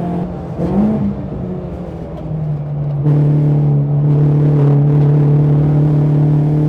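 BMW 116i race car engine heard from inside the cabin: off the throttle with a short rev blip about a second in, then back on full throttle from about three seconds, running loud and steady with the pitch slowly rising under acceleration.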